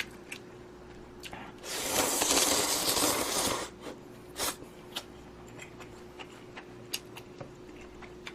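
Close-up eating sounds: a loud breathy slurp lasting about two seconds, a couple of seconds in, among small scattered clicks and mouth smacks, over a faint steady hum.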